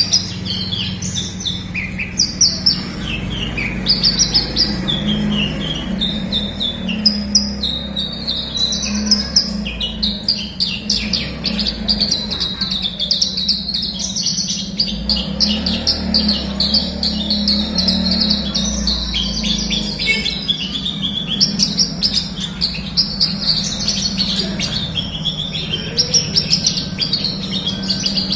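Javan bush lark (branjangan) singing a continuous, energetic song of rapid, varied chirps and trills, over a steady low hum.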